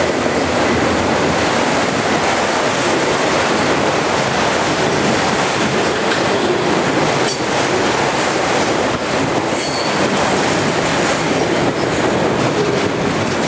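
Empty auto-rack freight cars rolling past close by: a steady, loud rumble and clatter of steel wheels on rail. Brief high wheel squeals come in about halfway through and again a few seconds later.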